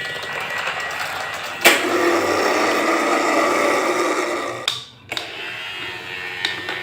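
A small electric motor whirring steadily. A sharp click comes just under two seconds in, after which it runs louder, and it drops out briefly about five seconds in.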